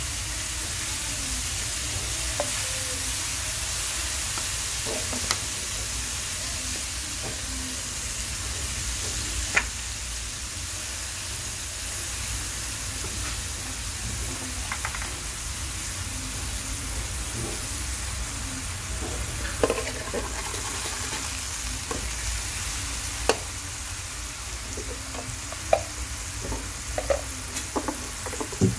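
Sliced beef frying in hot oil in a wok: a steady sizzle with bubbling, broken by a few sharp clicks that come more often near the end.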